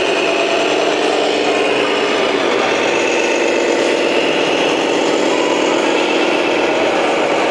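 Scania bus running on the move, a steady engine and drivetrain drone with a whine above it; the engine note shifts about two seconds in.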